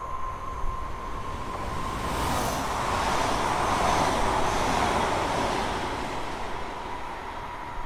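ABTR ER1 electric multiple-unit train passing through the station: a rushing rail noise swells to a peak about three to five seconds in, then fades. A steady high whine can be heard in the first couple of seconds.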